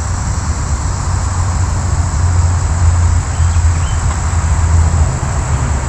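Steady low rumble of traffic on a nearby interstate highway.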